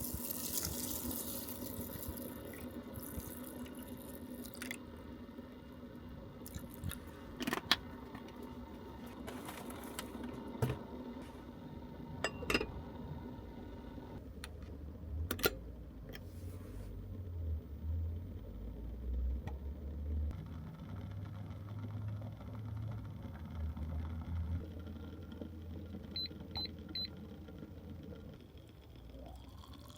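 Heavy rain on the roof of a Honda N-VAN, heard from inside the cabin: a steady patter with scattered sharper drips and knocks. A low rumble rises and falls through the second half.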